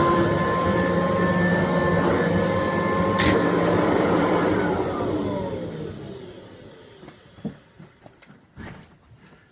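Kirby Dual Sanitronic 80 upright vacuum cleaner running with a steady motor whine, then a click about three seconds in, after which the motor's pitch falls as it spins down to a stop. A few light knocks follow near the end.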